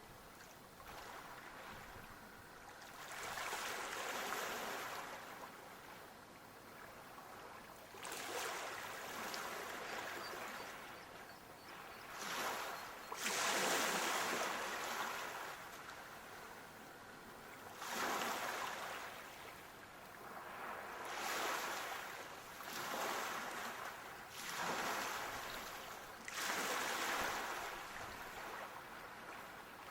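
Sea waves breaking and washing up the shore, a hiss of surf that swells and falls back every few seconds.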